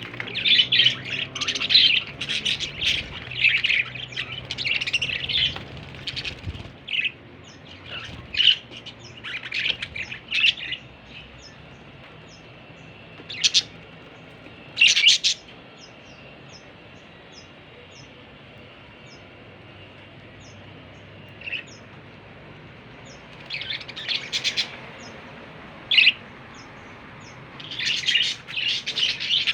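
Budgerigar chirping and chattering in quick clusters of high, short calls, thinning out to a lull in the middle and picking up again near the end.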